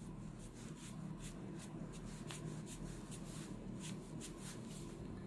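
A soft Chinese painting brush brushing lightly across rice paper in quick, short strokes, about three a second, laying on a pale, watery wash.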